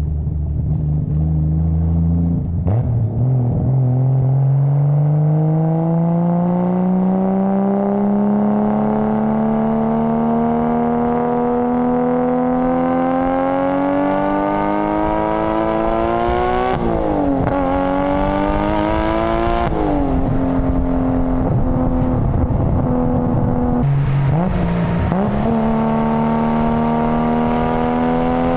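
Nissan Skyline GT-R (BCNR33) RB26DETT twin-turbo straight-six and exhaust pulling up through the revs in one long, steady climb. Two gear changes follow, about two-thirds of the way in, each dropping the revs sharply. The engine holds steady, dips briefly and picks up again, then climbs once more.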